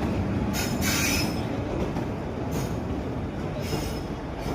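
Train hauled by a WAP-4 electric locomotive rolling along the track: a steady low rumble of wheels on rails, with short high squeals about half a second in, near the middle, and again toward the end.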